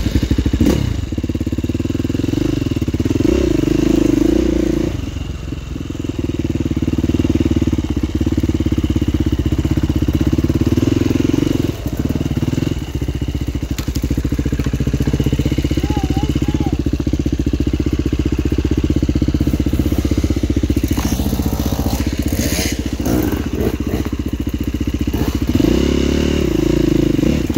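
Dirt bike engine running under throttle, its pitch and level rising and falling as the throttle opens and closes, with a few knocks and clatter over rough ground about three quarters of the way through.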